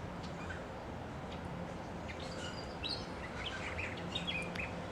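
Small birds calling: a quick run of short chirps and whistles starting about two seconds in, over a steady background hum.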